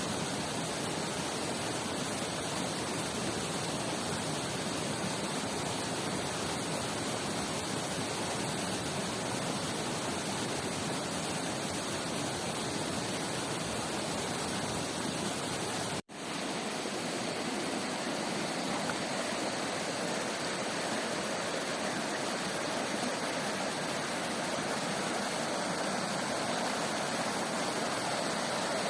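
Steady rushing of a waterfall and river, an even wash of water noise, cut off for an instant about halfway through before carrying on.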